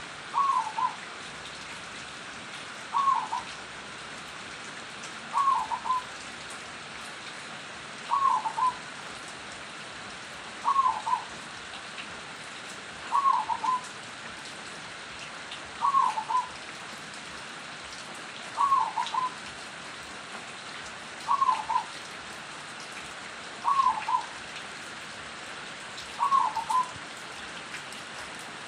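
Zebra dove (perkutut) cooing: one short call repeated at very even intervals, about every two and a half seconds, over a steady background hiss.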